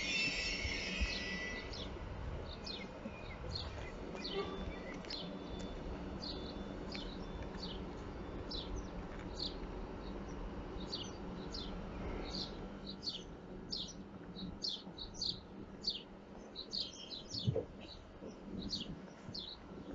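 Small birds chirping over and over in short, high, downward chirps, which come thicker in the second half. Underneath runs a steady low rumble. A high squeal dies away in the first two seconds.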